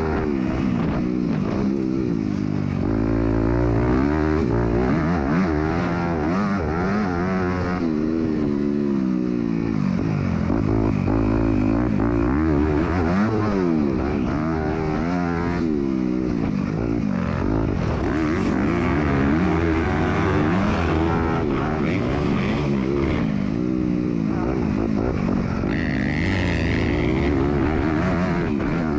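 Motocross bike engine racing on track, its pitch climbing and falling over and over as the rider opens the throttle, shifts and backs off through corners and jumps, heard from a rider-mounted camera.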